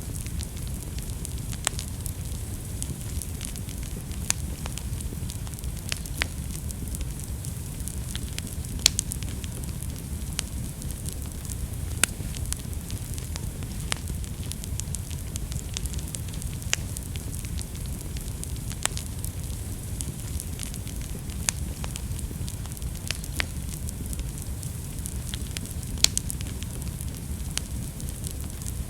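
Wood fire in a fireplace burning with a steady low rumble and irregular sharp crackles and pops, a few louder snaps among them.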